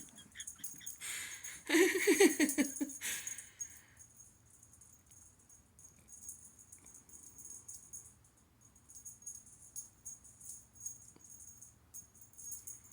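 Kittens playing with a rattling toy: quick bursts of light rattling and jingling, with a loud flurry and a brief pitched cry about two seconds in.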